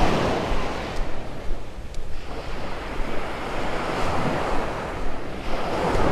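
Small waves breaking and washing up the sand, a steady hiss that swells once near the start and again near the end, with wind rumbling on the microphone.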